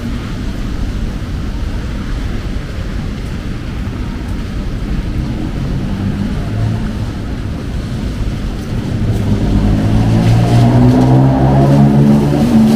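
Steady noise of heavy rain on the street, then from about nine seconds in a motor vehicle's engine close by, revving up and getting louder with a rising pitch.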